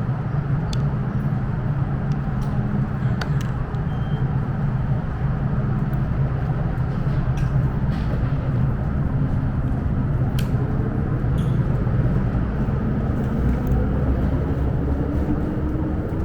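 Steady low rumble and hum of an underground MTR metro station platform, with a few faint clicks; near the end a whine rises in pitch, as an M-train's traction motors start to pull away.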